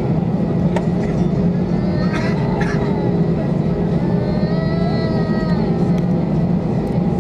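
Steady low rumble of an Airbus A319 cabin on the ground, from the engines and air system. About four seconds in, a short wavering high-pitched voice-like call rises and falls in the background.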